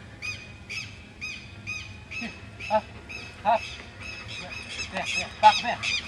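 Birds calling over and over: short, high, harsh calls about two a second, joined from about two seconds in by louder, lower, arched calls that grow more frequent toward the end.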